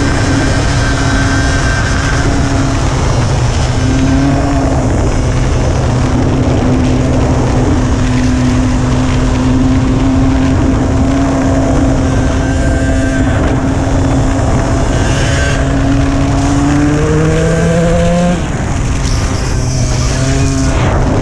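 Dirt bike engine running steadily under way, with a dense low rumble of wind and road noise on the microphone. Near the end the engine pitch climbs as the throttle is opened, then drops suddenly as it is rolled off.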